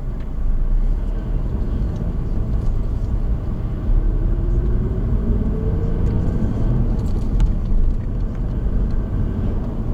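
Car driving, heard from inside: a steady low rumble of road and engine noise. A faint rising whine climbs over the first few seconds as the car picks up speed.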